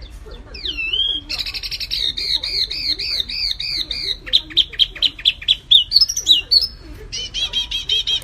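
Wambi mini and kapas tembak songbirds singing loud, rapid whistled songs: a run of arching notes about four a second, then separate rising and falling notes and quick chattering trills near the end.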